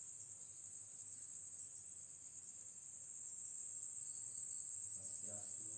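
Crickets chirping in a continuous high-pitched chorus.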